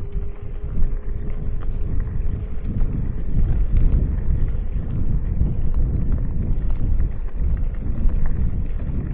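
Heavy wind buffeting the microphone of a moving bicycle rider, a loud, continuous low rumble, with a faint steady tone that fades out a couple of seconds in.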